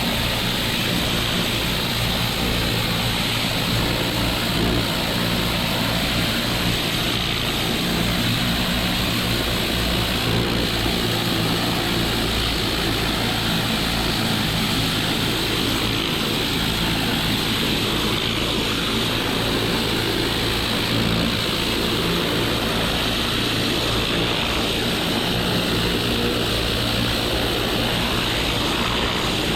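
Pressure washer engine running steadily under the even hiss of its water spray.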